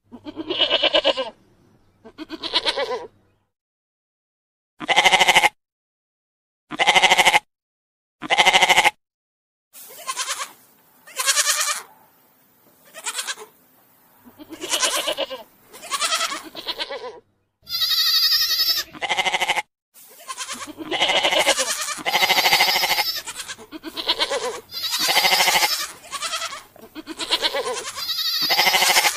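Goats bleating, one call after another: separate calls with dead silence between them at first, then crowding in and overlapping from about ten seconds on, with a few thin, high-pitched calls near the middle.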